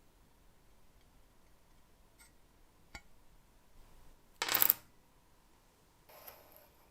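Small metal pieces clattering briefly onto a hard surface about four and a half seconds in, with a single click before it and a fainter rattle near the end.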